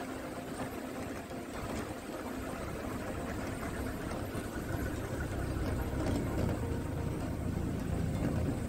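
Maruti Gypsy 4x4's engine running as it drives along a rough off-road track, a steady low hum that gets a little louder about halfway through.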